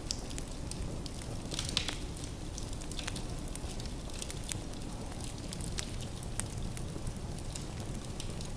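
Wood fire burning in a fireplace: a steady low rumble with irregular sharp crackles and pops from the burning logs, a brief flurry of louder pops just under two seconds in.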